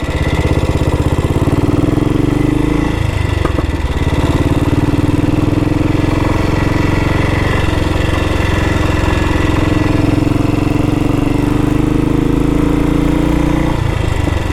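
1962 Matchless G80CS's 500 cc single-cylinder four-stroke engine running under way. Its note climbs slowly, with a brief break and drop in pitch about three seconds in and again near the end, as the rider shifts up a gear.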